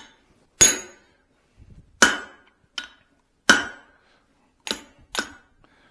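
Hand hammer striking steel on the anvil during forging: six separate blows about a second apart, one lighter than the rest, each with a short metallic ring.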